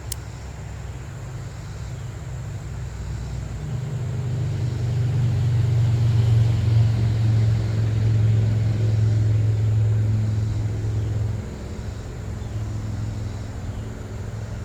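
A passing vehicle: a low, steady hum that builds over several seconds, is loudest in the middle, and drops off about eleven seconds in.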